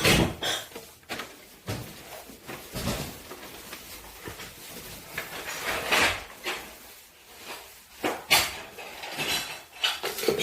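Irregular clattering and knocking of household items being handled and moved, like dishes and cupboard or drawer doors, with the loudest knocks about six and eight seconds in.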